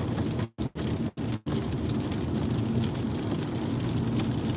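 Inside a moving car in a heavy rainstorm: steady road and engine hum with rain on the car. The sound cuts out completely three times, briefly, in the first second and a half.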